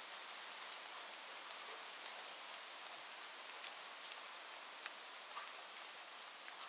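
Steady rain hiss with a few scattered sharp ticks.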